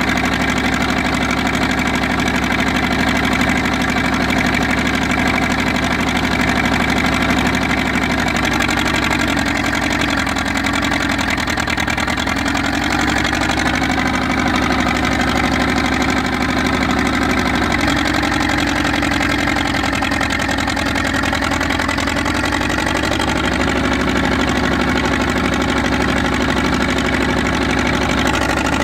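1956 International TD6 crawler dozer's engine running steadily while warming up, its speed wavering slightly a couple of times.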